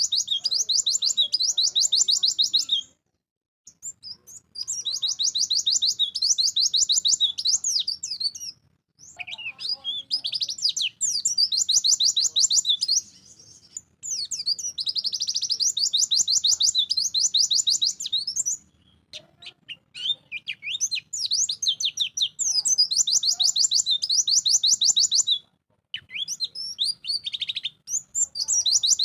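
A white-eye (pleci) singing loudly in bouts of rapid, high trills and twittering. There are about six phrases, each a few seconds long, with short pauses between them.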